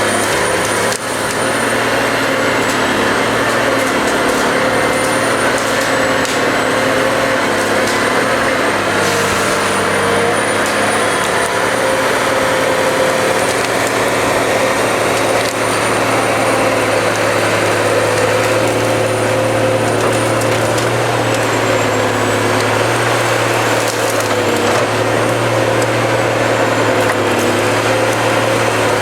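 Cut-to-length timber harvester working: its engine and hydraulics run steadily with a high whine, and wood cracks and splinters as the harvester head processes trees.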